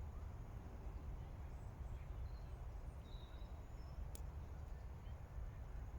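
A few faint, short bird calls over a steady low rumble, with one sharp click about four seconds in.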